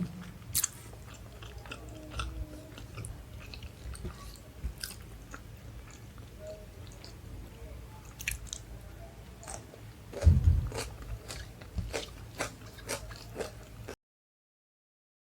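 Close-miked eating of chole bhature and rice: chewing and biting with many small wet clicks, and a louder bite and chew about ten seconds in. The sound cuts off to silence about a second before the end.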